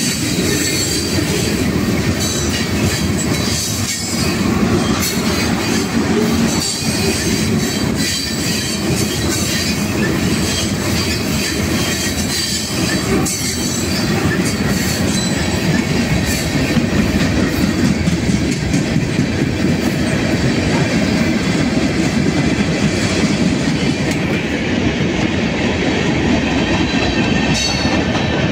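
Freight train of tank cars and covered hoppers rolling past close by: a steady rumble of steel wheels on rail with the knocking and clatter of the cars, and a thin high wheel squeal above it.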